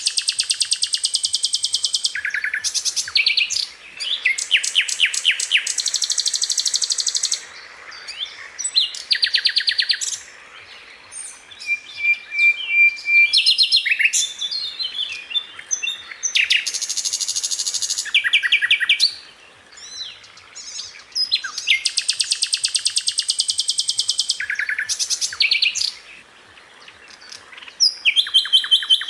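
Sikatan londo (hill blue flycatcher) singing: a series of high, very rapid trilled phrases, each one to three seconds long, separated by short pauses.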